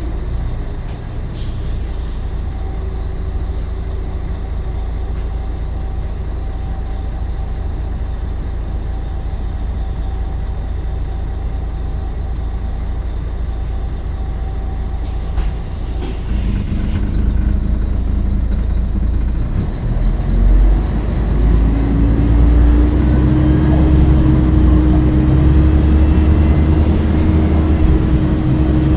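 Scania L113CRL bus's diesel engine idling, with a few short air-brake hisses. About 20 seconds in, the engine picks up and runs louder under load as the bus pulls away.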